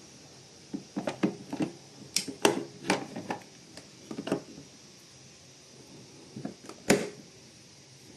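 A series of irregular sharp clicks and knocks, such as hard objects being handled and set down, bunched in two groups; the loudest knock comes near the end.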